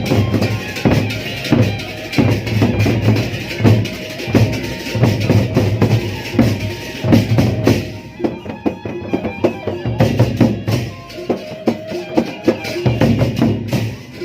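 Sasak gendang beleq ensemble playing: large drums beat a steady rhythm, with a suling bamboo flute in the ensemble. The bright high layer drops away about eight seconds in, leaving the drums.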